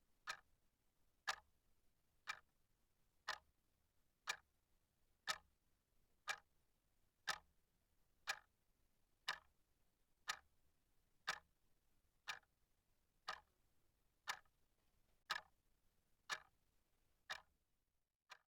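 Clock ticking steadily, one sharp tick a second, stopping near the end.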